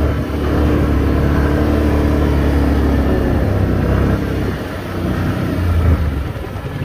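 A Can-Am 570 quad's V-twin engine runs steadily, then eases off about four seconds in and picks up briefly again near six seconds.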